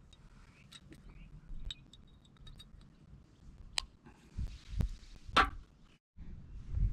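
Gear being handled in a car's interior: scattered light clicks and clinks, a sharp click about four seconds in, then a couple of soft thumps with a brief rustle.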